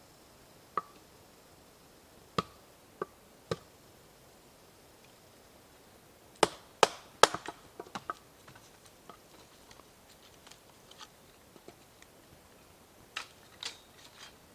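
Irregular sharp knocks and clicks, scattered singly at first, then three loud ones in quick succession about halfway through followed by a run of smaller taps, with a few more near the end.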